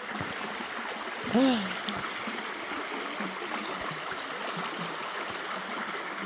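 Water running steadily over a small waterfall in a freshly filled creek, with a short vocal sound, a brief 'oh' or hum, about a second and a half in.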